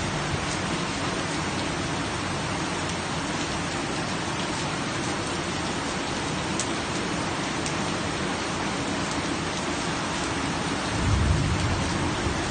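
Steady rain falling, with a few sharper drips. A low rumble swells briefly near the end.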